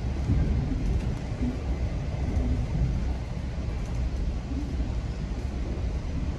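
GO Transit commuter train coach in motion, heard from inside the coach: a steady low rumble from the running gear and rails, with no distinct knocks or changes.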